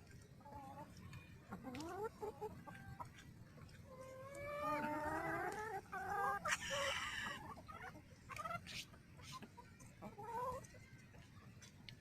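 Chickens clucking and calling as they feed, with a louder run of drawn-out calls in the middle.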